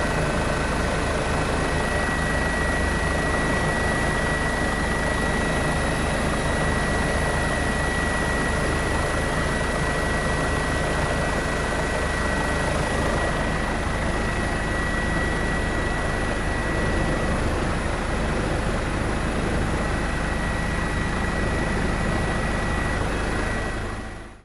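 Steady drone of an aircraft in flight, probably heard from inside a helicopter, with engine and rotor noise and a thin high whine held throughout.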